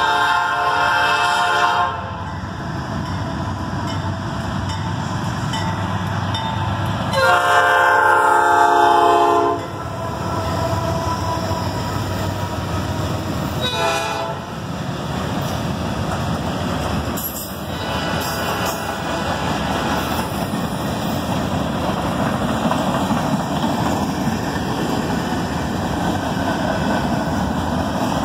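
CSX freight train's air horn sounding two long blasts, the first ending about two seconds in and the second, louder one about seven seconds in. Then the diesel locomotives and freight cars roll past in a steady rumble with wheel clatter on the rails.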